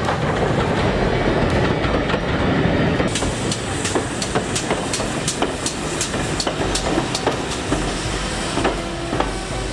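Steam train running: a dense rush of noise, joined about three seconds in by a quick run of sharp clicks, roughly three a second.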